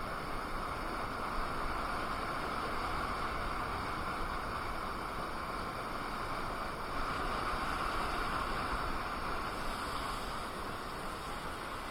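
Steady rush of wind over the microphone with low road rumble while riding a KingSong KS18S electric unicycle.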